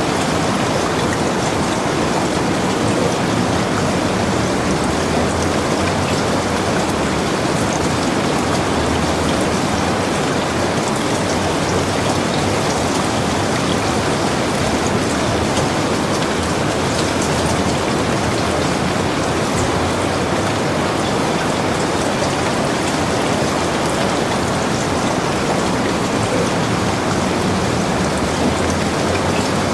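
Heavy rain falling steadily, an even hiss with fine pattering drops and no letup.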